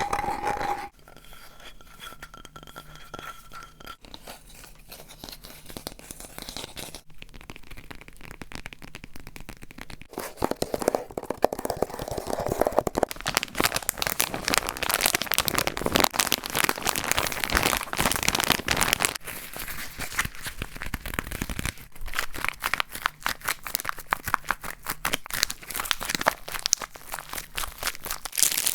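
A run of close-miked ASMR trigger sounds, changing every few seconds: quiet soft handling for the first several seconds, then dense crinkling and crunching, as of crumpled material, from about a third of the way in.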